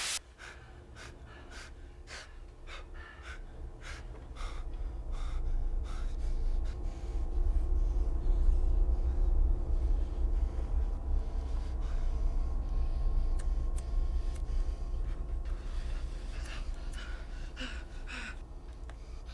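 Heavy, gasping breaths over a deep low rumble that swells through the first several seconds and then holds steady.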